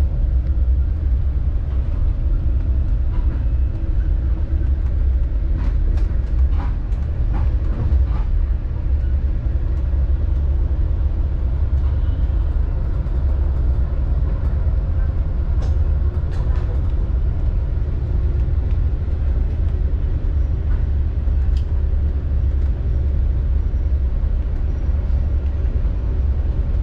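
Metra commuter train running at speed, heard from inside the passenger car: a steady low rumble with a few faint clicks.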